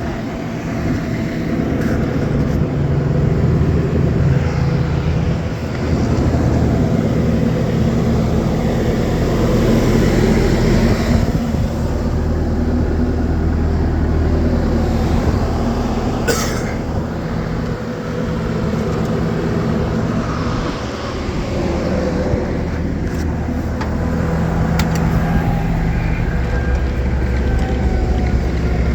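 Bobcat T870 skid steer's four-cylinder Kubota diesel engine running, its note changing several times, with a brief high-pitched sound about halfway through.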